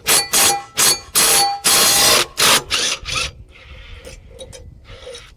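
Power tool run at its maximum setting in about seven short, loud bursts over the first three seconds, undoing the lawnmower's 5/8-inch blade bolt, followed by fainter clattering.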